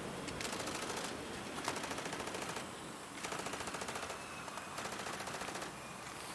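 Wood fire crackling, with dense, irregular crackles and occasional louder pops.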